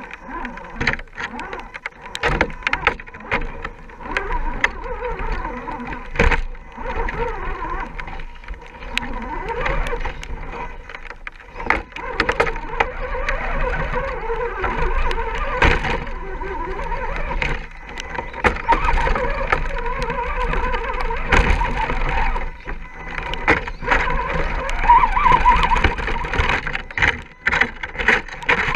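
Radio-controlled Axial SCX10 scale crawler running, its electric motor and gears whining and wavering in pitch as it is throttled, with many sharp clicks and knocks from the truck working over the ground.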